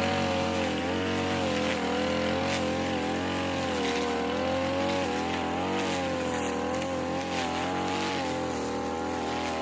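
Small petrol engine of a grass-cutting machine running at high speed, its pitch wavering slightly up and down.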